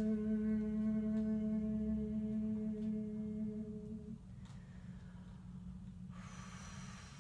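A steady held tone used in sound healing, the hummed voice or singing-bowl kind, stops about four seconds in. A soft hiss follows near the end.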